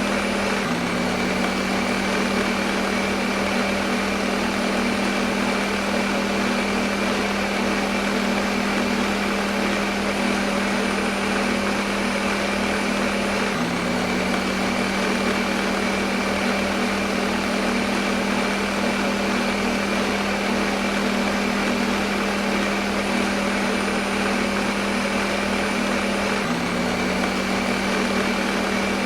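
Electric kitchen blender motor running continuously at a steady speed, a constant hum under a dense whirring noise. The hum shifts slightly about every 13 seconds.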